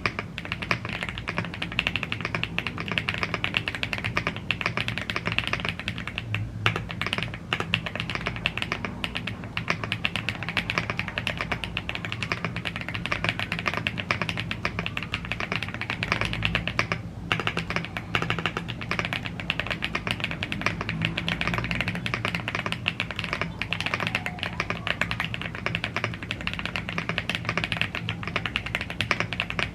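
Fast, continuous typing on a gasket-mounted CNC aluminium mechanical keyboard with Blue Grey tactile switches and double-shot PBT Cherry-profile keycaps: a dense stream of key clacks with brief pauses about a third and about halfway through.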